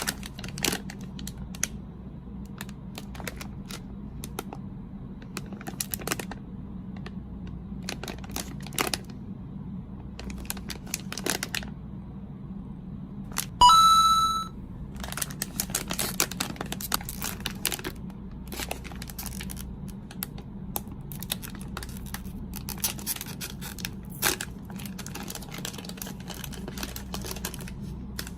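Snack packaging and small utensils being handled: scattered clicks, taps and crinkles over a steady low hum. Just past halfway there is one short, loud, high-pitched tone.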